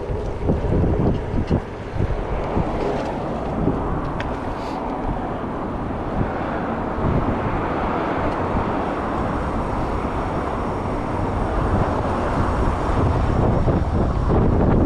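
Wind rushing over a chest-mounted camera's microphone while cycling, mixed with the rumble of bicycle tyres on the trail, with a few light knocks in the first couple of seconds.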